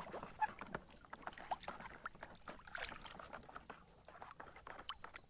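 Faint, irregular splashing and sloshing of water as a muddy toy is rubbed clean by hand in a container of water.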